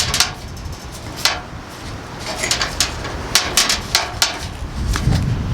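Irregular sharp clicks and light metallic taps as aluminum flashing is handled, with wind rumbling on the microphone, heavier near the end.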